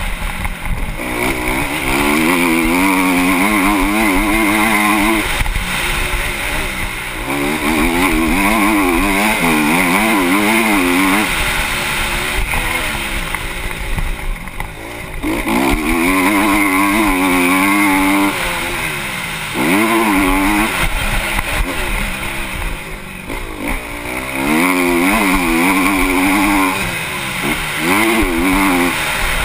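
Honda CRF250 motocross bike's single-cylinder four-stroke engine at race speed, its pitch climbing and dropping rapidly as the throttle is worked and gears change. There are short quieter stretches off the throttle about halfway through and again later.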